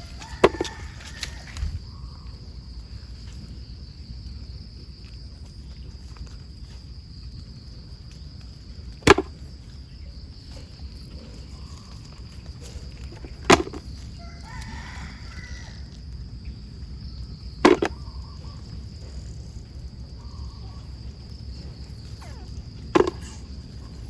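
Steady high-pitched insect drone, with five sharp knocks a few seconds apart.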